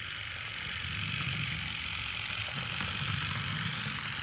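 Motorized toy train running steadily along its track, with a continuous whirring and light rattling.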